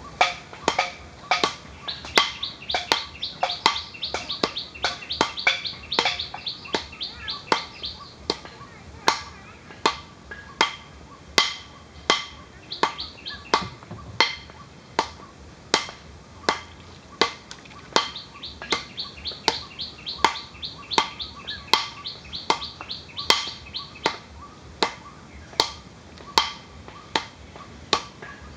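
Sharp dry clicks repeating unevenly about one and a half times a second, with two stretches of fast, high-pitched bird chirping, one a couple of seconds in and another about two-thirds of the way through.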